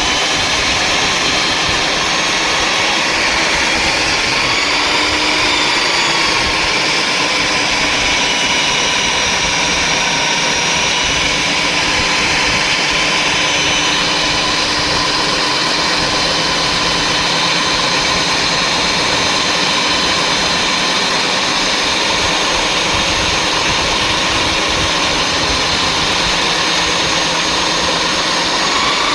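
Electric diamond core drill running steadily under load, wet-cutting a hole with water fed to the bit. Its motor whine sags slightly a few seconds in and again near the end.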